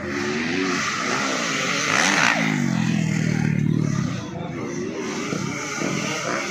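Motocross dirt bike engines revving, their pitch rising and falling as the bikes accelerate, with a longer pull from about two to four seconds in.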